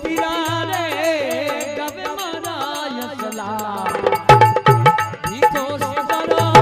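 Devotional bhajan music: a wavering, ornamented melody line over a hand-drum rhythm. The drum strokes come in louder about four seconds in, over a steady held note.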